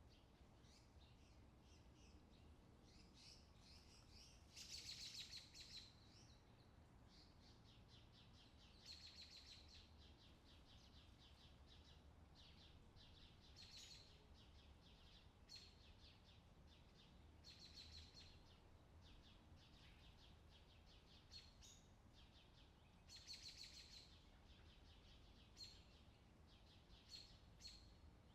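Faint outdoor summer ambience: songbirds chirping and trilling, with a louder trilled phrase every few seconds and short high chirps near the end, over a low background hum.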